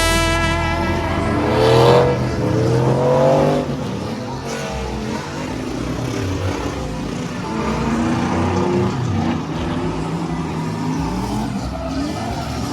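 Vehicle engine revving several times, its pitch climbing and dropping, with a burst of music cutting off just after the start.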